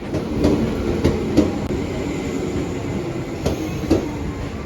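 Commuter train pulling into a station, a steady rumble with the wheels clacking over rail joints in pairs.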